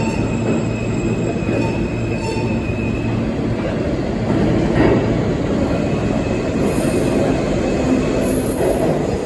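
R160 subway train running along the track with a loud rail rumble. A steady electric motor tone fades out about three seconds in, and high-pitched wheel squeals come in near the end.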